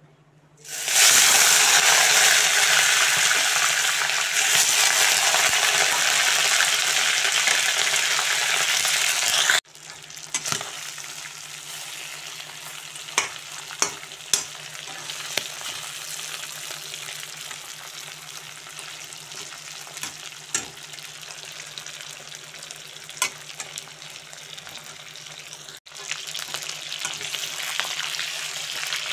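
Chicken pieces sizzling in hot oil in a frying pan, starting loud about a second in as they hit the oil. The sizzle drops off sharply about a third of the way through to a steadier, quieter frying with scattered sharp clicks as the pieces are stirred, and grows louder again near the end.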